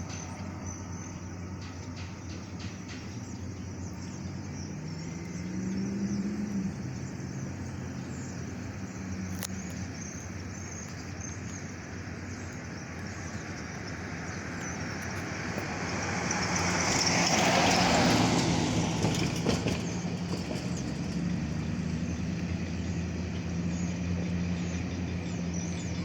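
A road vehicle passes, its noise building, peaking about two-thirds of the way through and fading away, over a steady low drone and the high chirring of insects.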